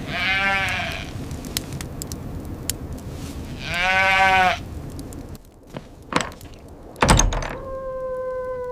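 Two bleating animal calls, one at the start and another about four seconds in, over a steady rushing background. Near the end come a few clicks and a heavy thump, followed by a steady hum that slowly falls in pitch.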